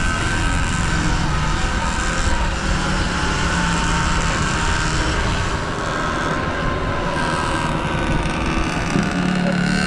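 Motorbike engine running at a steady speed under a dense rushing noise, as heard from a moving bike.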